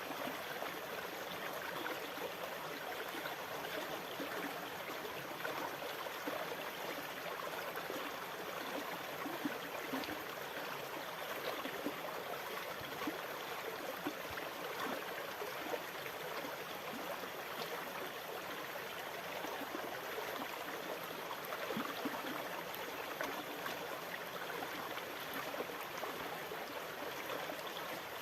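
Shallow sea water lapping and gurgling steadily, with no breaking waves or rising swells.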